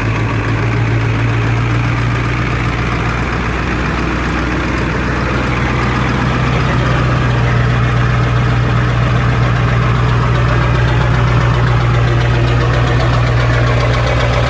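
1994.5 Ford 7.3-litre Powerstroke turbo-diesel V8 idling steadily, cold, just after a cold start.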